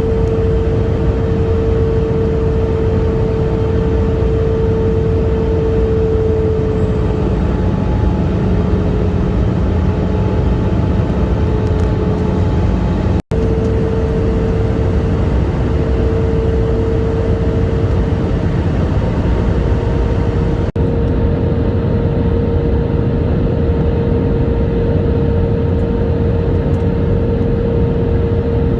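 Steady, loud engine and road-or-air noise heard from inside a passenger vehicle's cabin, with a constant droning hum. It cuts out for an instant about 13 seconds in.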